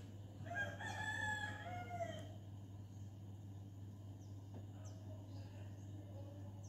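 A single long bird call, about two seconds, in clear pitched tones, starting about half a second in, over a steady low hum. A few faint short chirps follow later.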